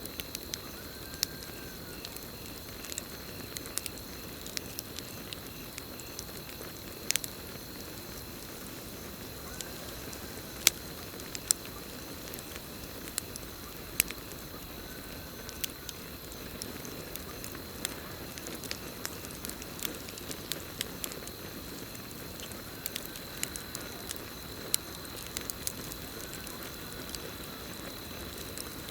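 Campfire crackling, with irregular sharp pops from the burning wood, over a steady high trill of crickets. A faint short call rises and falls a few times.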